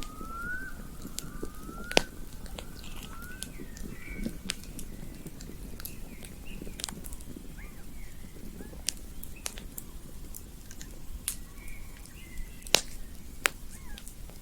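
Campfire crackling, with sharp wood pops scattered irregularly over a steady low rumble. Short rising calls sound three times in the first few seconds, and wavering chirps come a little later and again near the end.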